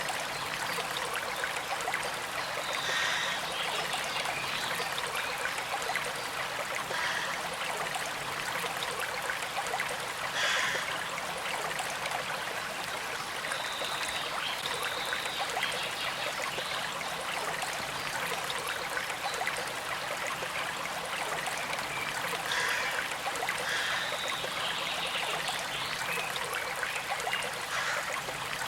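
Gentle stream flowing steadily: a constant trickling rush of water with brief brighter splashes now and then.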